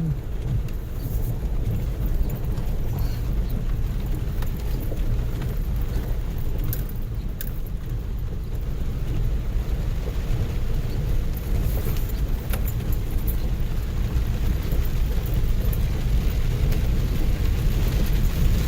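Four-wheel-drive vehicle crawling down rough, wet ground with downhill assist on: a steady low engine and tyre rumble with scattered light knocks and rattles, getting louder near the end.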